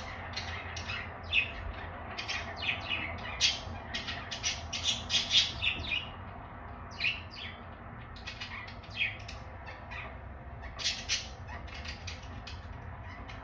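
Budgerigars giving short, sharp chirps and squawks, many in quick succession over the first six seconds, then a few scattered calls.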